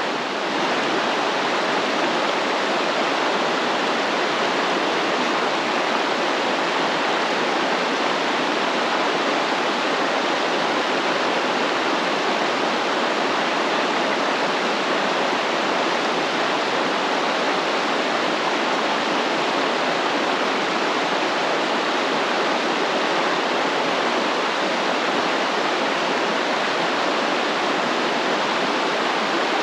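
Stream water flowing and rushing steadily, an even, continuous wash of water noise.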